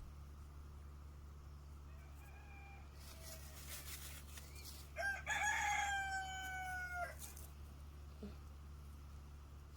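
Rooster crowing once: one loud call of about two seconds starting about five seconds in, with a fainter call a few seconds earlier. A steady low hum runs underneath.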